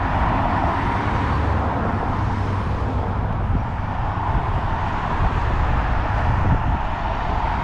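Wind buffeting a GoPro's microphone while riding a bicycle, a heavy fluctuating rumble with a steady rush of road noise over it.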